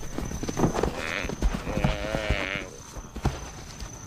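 A large prey animal bellows in distress as hunting lions bring it down. There is one wavering call about two seconds in, amid scuffling thuds.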